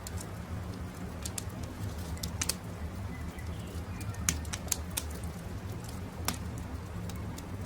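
Campfire crackling: about six sharp pops and snaps of burning wood over a steady low rumble of the fire, with faint birdsong in the background.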